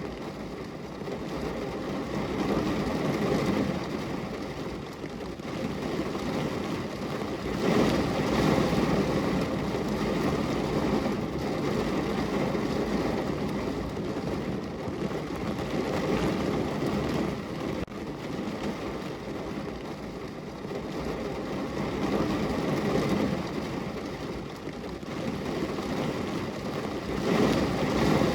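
Heavy rain falling on a car's roof and windows, heard from inside the car: a dense, steady patter that swells and eases in waves, loudest about eight seconds in and again near the end.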